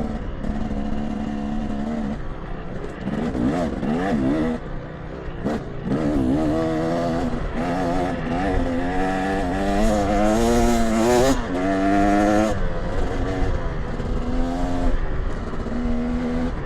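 2024 KTM 300 XC TBI two-stroke dirt bike engine being ridden, its pitch rising and falling as the throttle is worked, revving hardest about ten to twelve seconds in.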